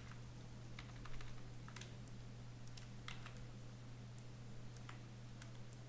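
Irregular, scattered clicks of a computer mouse and keyboard, about a dozen over a few seconds, over a steady low electrical hum.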